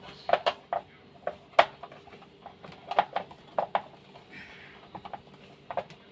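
Irregular sharp clicks and taps of small parts and a tool being handled while a new refrigerator defrost timer is fitted into its mounting.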